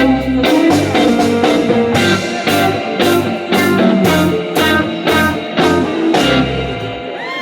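Live blues band playing an instrumental passage with no singing: electric guitar over bass and drums on a steady beat, the music ending about seven seconds in.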